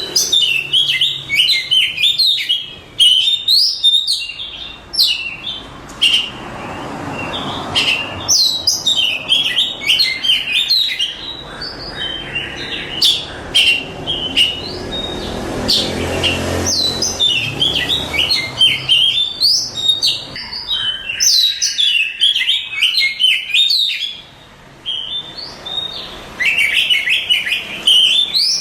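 Oriental magpie-robin (kacer) singing a long run of rapid, varied whistled and chattering phrases, with a few short pauses and a longer one a little past the middle.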